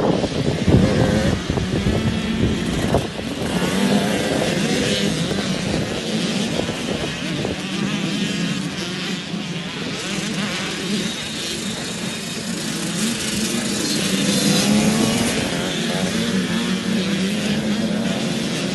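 Motocross bike engines running and revving without a break, the pitch rising and falling as the throttle opens and closes.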